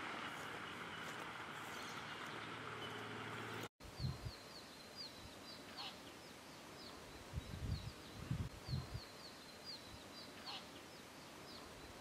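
Steady outdoor background noise that breaks off in a short dropout. After it a small bird gives quick series of short high chirps, with a few low soft thumps in between.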